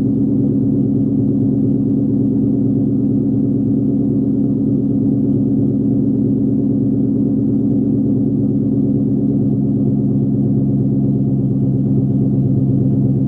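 2000 Ford Mustang GT's 4.6-litre V8 idling steadily through a Magnaflow X-pipe exhaust after a cold start, the idle settling toward below 1000 rpm. Its pitch drops slightly near the end.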